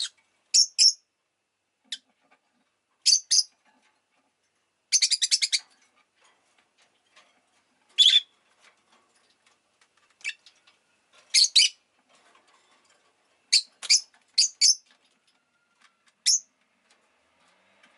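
Rosy-faced lovebird giving short, sharp, high-pitched chirps, often in pairs, at irregular intervals with quiet gaps between, and a quick rattling trill about five seconds in.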